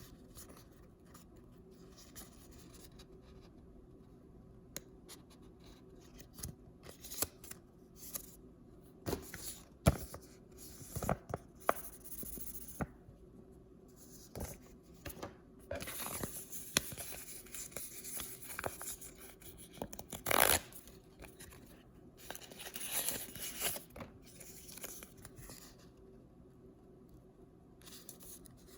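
Hands opening paper blind-bag and box packaging: irregular crinkling, tearing and clicking, with a few sharp knocks and a longer rasping tear about two-thirds of the way through.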